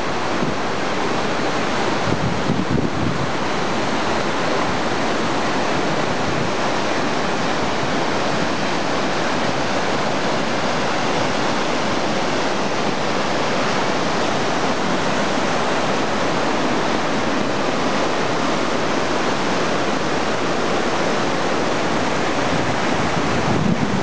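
Mountain waterfall pouring steadily: a constant, even rush of water.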